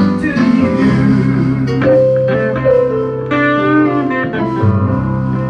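Gospel church band music led by a guitar playing held notes that slide in pitch, over a steady bass line.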